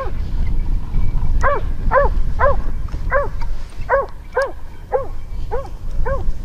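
Hunting dog barking in a steady run of short barks, about two a second, over a low rumble of wind or handling noise.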